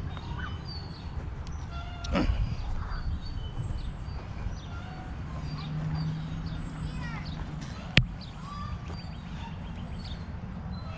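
Outdoor ambience with birds chirping in short, scattered calls over a steady low rumble. A thud comes about two seconds in, and a single sharp click about eight seconds in.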